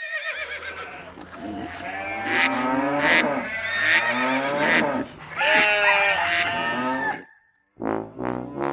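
Farm animals bleating in several long, quavering calls over background music.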